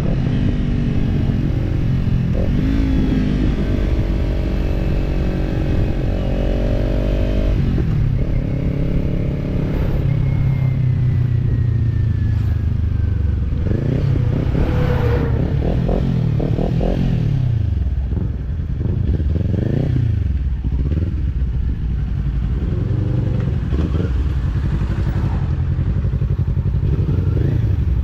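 Kawasaki Z-series parallel-twin motorcycle engine with a slip-on aftermarket exhaust, heard from on the bike. It holds a steady note for the first several seconds, then rises and falls in pitch again and again as the rider accelerates, shifts and rolls off.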